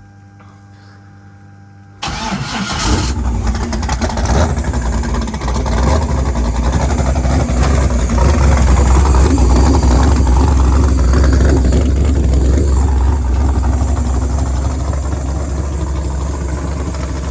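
El Camino's swapped 6.0-litre LS V8 cranking and catching about two seconds in, then running at a loud, deep, steady idle.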